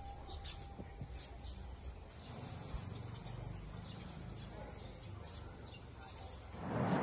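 Faint bird chirps over a low outdoor background. A louder swell of noise rises near the end.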